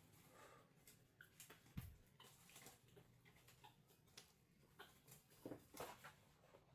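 Near silence with faint scattered clicks and taps, a soft low thump about two seconds in, and a short cluster of taps near the end.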